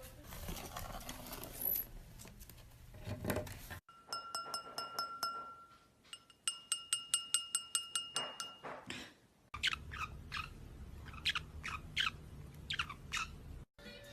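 Pet-bird clips with no talking: first a ringing, chime-like tone with a fast even ticking, then a bird giving a run of short chirps that each fall quickly in pitch.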